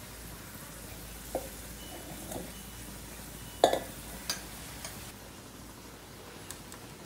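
Potato fritters frying in oil in a stainless steel pan with a steady low sizzle, while metal tongs clink against the pan and wire frying basket five times, the loudest clink a little past halfway.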